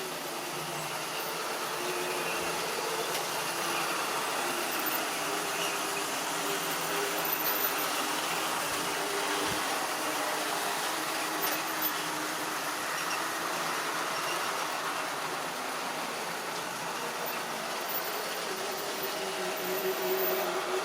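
OO-gauge model train running on track: a steady whirr of the small electric motor and rolling wheels, with a few light clicks.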